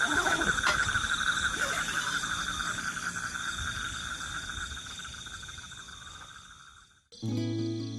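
Chorus of calling frogs, a steady pulsing trill that fades out gradually and stops near the end, where music begins.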